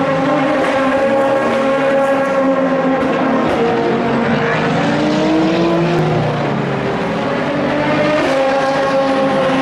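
Several endurance race cars running at once, their engine notes overlapping, one note rising about halfway through and another car's engine coming in near the end.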